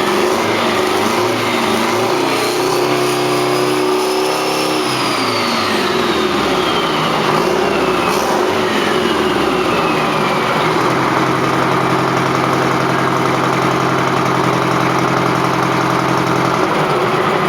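Rebuilt Detroit Diesel 8V92 two-stroke V8 diesel running on a test stand. It is revved up and back down over a few seconds, with a high whine rising and falling with the revs, then held at a steady speed.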